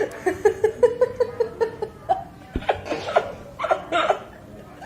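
Laughter: a quick run of short "ha-ha" pulses, about five a second, for the first second and a half, then a few looser bursts of laughter.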